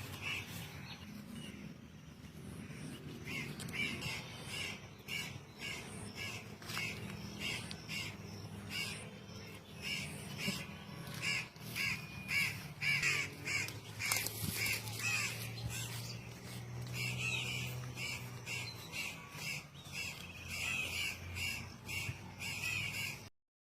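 A bird giving short, harsh calls over and over, about two a second, with a low steady hum underneath.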